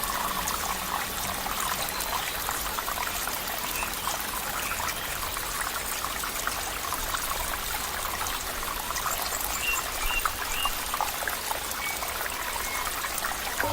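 Flowing water trickling and bubbling steadily, like a small stream.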